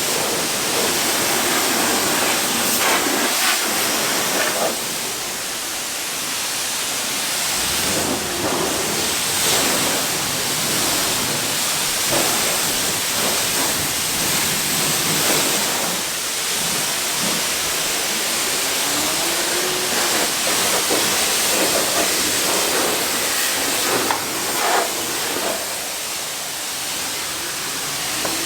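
Steady hiss of a pressure-washer spray.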